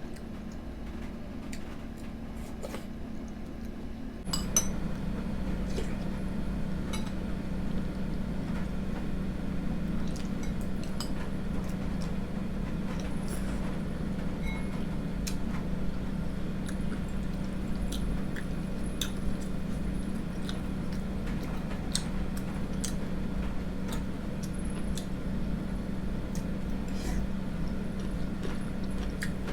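A spoon clinking against a bowl now and then as porridge is eaten, over a steady low hum that gets louder about four seconds in.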